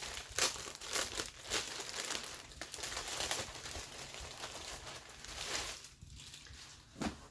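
Clothing packaging crinkling and rustling in irregular bursts as a garment is pulled out of it, dying down near the end, with one short sharp rustle just before it ends.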